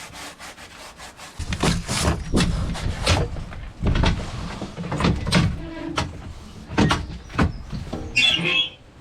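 Shoe soles being scrubbed against the stiff brushes of a kauri dieback boot-cleaning station: a run of irregular rubbing and scraping strokes that grow louder after about a second and a half.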